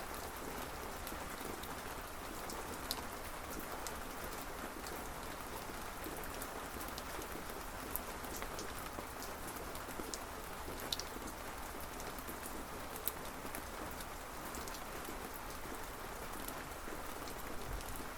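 Steady rainfall, an even hiss with many individual drops ticking on a surface, a few standing out louder.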